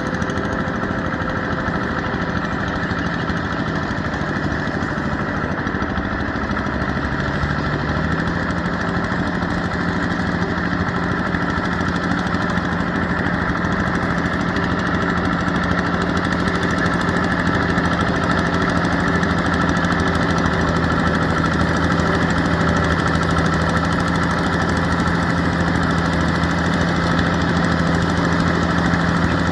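Yanmar EF725T tractor's diesel engine running steadily, its speed stepping up slightly about seven seconds in and then holding.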